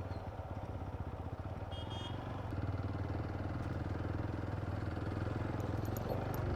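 Motorcycle engine running steadily at low speed, the bike being ridden slowly through a parking area.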